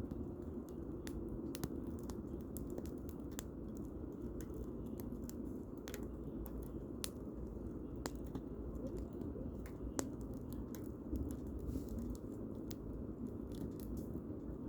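Firewood burning in a campfire, crackling with irregular sharp pops over a low, steady rush.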